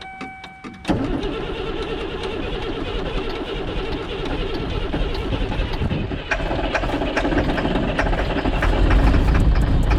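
Diesel truck engine that has sat unused for six years cranking and firing about a second in, then running roughly with a dense, rapid clatter that gets louder later on. A steady dash warning buzzer sounds until the engine catches.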